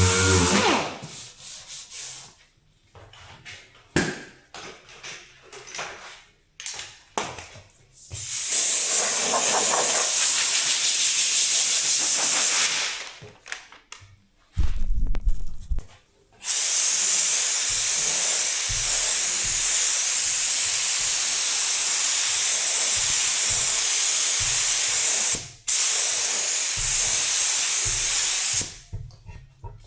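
A power tool winds down in the first second. After some short knocks and handling noises, pressurised spray hisses in long bursts: about four seconds, then a long nine-second pass, then a shorter one near the end.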